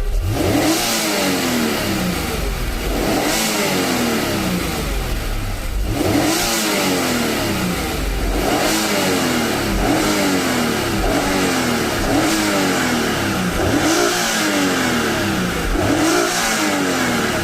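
Honda NSX-R's naturally aspirated V6 free-revving while stationary, blipped hard about every two to three seconds toward the redline, each rev rising quickly in pitch and falling back slowly.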